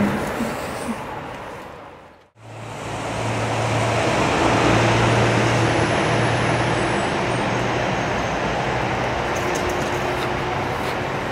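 A steady low engine hum under a constant wash of noise. The sound fades almost to silence about two seconds in, then comes back and holds.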